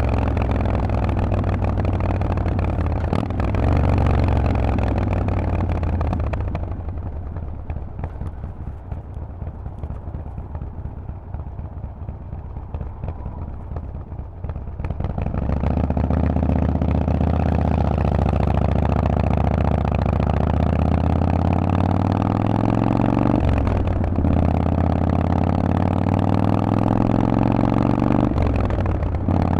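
Harley-Davidson Forty-Eight's air-cooled V-twin through a loud Vance & Hines exhaust, under way: it pulls on the throttle, goes off throttle about six seconds in and runs quieter for some eight seconds, then pulls again with revs climbing, broken by two quick upshifts near the end.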